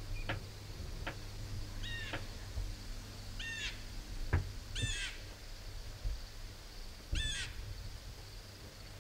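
A bird calling four times, short crow-like calls, each dropping slightly in pitch, spaced one to two seconds apart. A few faint sharp clicks fall between them.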